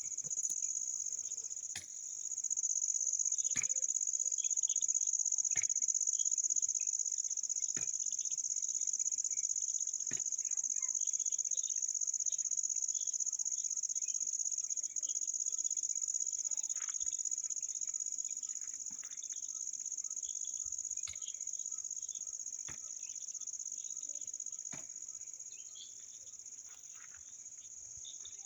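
Insects trilling in one steady, unbroken high-pitched drone, with faint sharp ticks about every two seconds and scattered faint chirps behind it.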